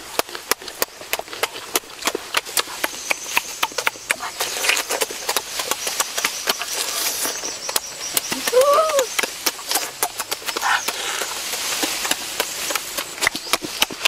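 Close-up chewing and lip-smacking while eating cooked shrimp: a fast, steady run of wet smacking clicks, several a second. About eight and a half seconds in there is a brief rising-and-falling hum.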